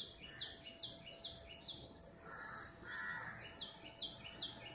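A small bird chirping a fast run of short, falling notes, about four a second, that pauses near the middle and starts again. A faint steady hum runs underneath.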